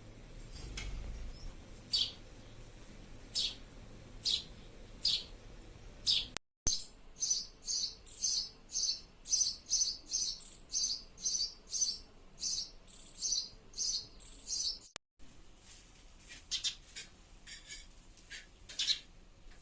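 House sparrow chirping. Single chirps come a second or so apart, then a quick run of about two chirps a second for several seconds, then scattered chirps again.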